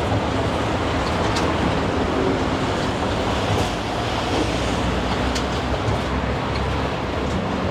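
Steady vehicle rumble of engine and road noise, heard riding in the open back of a Thai songthaew.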